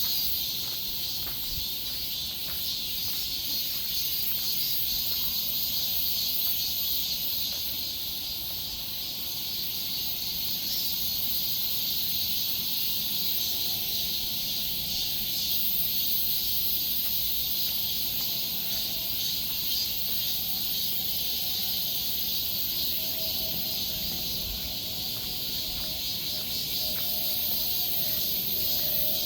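Dense, steady chorus of insects, a shrill pulsing hiss that doesn't let up, with faint steady tones entering about halfway through.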